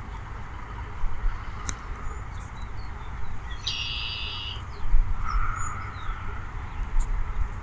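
Outdoor ambience of small birds chirping over a low, uneven rumble, with one short buzzy bird call a little before the middle.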